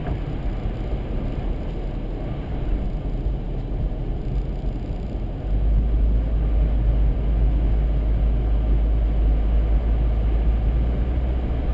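Steady rumble of a vehicle driving, heard from inside the cabin, with road and wind noise mixed in; the deep rumble grows louder about five and a half seconds in.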